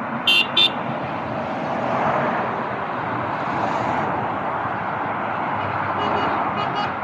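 Steady passing road traffic with a vehicle horn: two short, loud, high-pitched toots near the start, then a run of quicker horn beeps starting about a second before the end.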